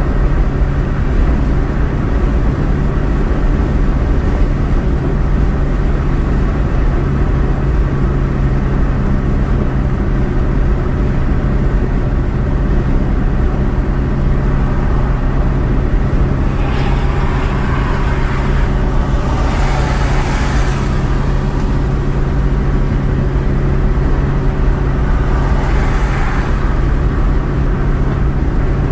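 Steady drone of a car driving, engine and road noise from inside the vehicle, with two brief swells of rushing hiss, one about two-thirds of the way through and one near the end.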